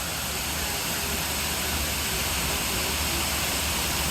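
Open-air tram running: a steady low engine hum under a continuous rushing noise of wind and movement.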